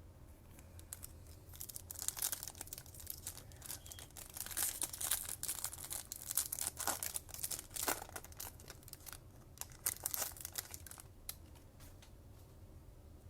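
Plastic wrapper of a Topps Chrome baseball card pack being torn open and crinkled by hand: irregular crackling over several seconds, densest in the middle, then dying away.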